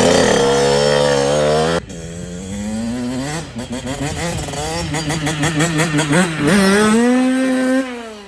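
Dirt bike engine revving, its pitch climbing and falling repeatedly, with a sudden break about two seconds in and a long rising rev near the end before it cuts off.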